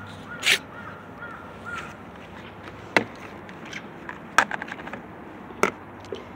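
A bird calling over and over, a short high note about three times a second, for the first two seconds. After that come scattered sharp clicks and knocks, the loudest about three and four and a half seconds in.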